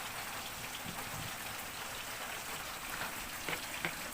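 Heavy rain falling steadily, with a few faint clicks near the end.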